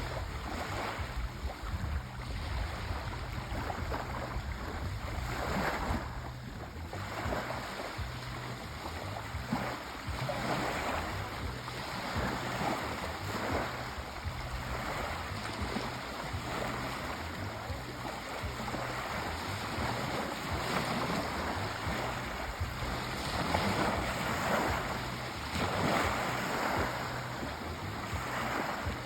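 Sea waves washing in and breaking on the shore, a continuous surf that swells and recedes every few seconds.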